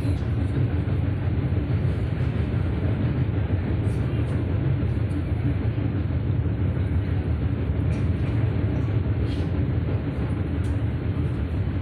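Passenger train running steadily, with a continuous low rumble of wheels on the rails heard from inside the carriage and a few faint clicks.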